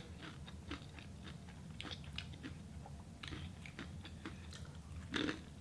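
A person chewing food close to a microphone: faint, irregular wet mouth clicks and crunches over a steady low room hum, with a short louder sound near the end.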